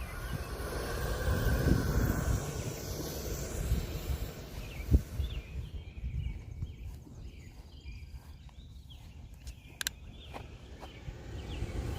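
Wind buffeting the microphone in an uneven low rumble, strongest in the first few seconds, with a sharp gust or bump about five seconds in. Birds chirp in short calls once the wind drops in the second half.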